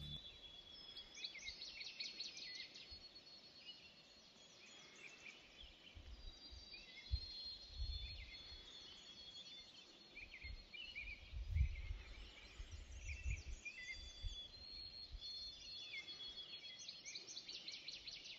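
Dawn chorus of several songbirds, with overlapping whistled notes, held notes and trills. Irregular low rumbles run underneath, the loudest about two-thirds of the way through.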